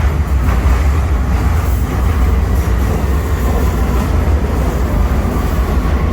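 London Underground train running, with a loud, steady low rumble and a faint whine that falls slightly in pitch near the end.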